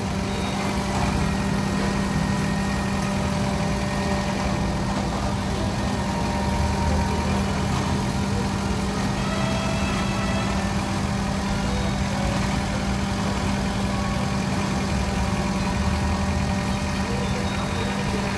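Suzuki Cultus petrol engine idling steadily, with an even, unchanging hum.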